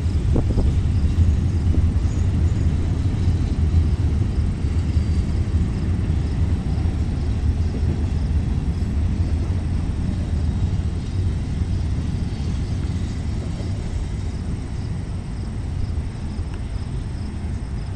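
Freight cars of a Canadian Pacific manifest train rolling past on the track, a steady low rumble that slowly fades as the end of the train goes by.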